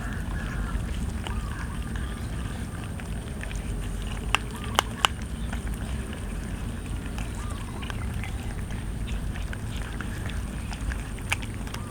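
Cats chewing roast chicken, with a few sharp crunches about four to five seconds in and again near the end, over a steady low rumble.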